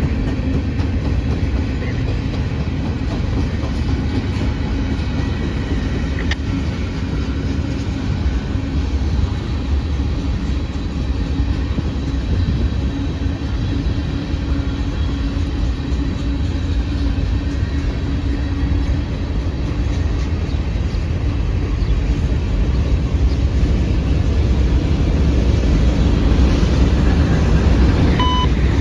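A train rolling past: a loud, steady rumble of railcars on the rails.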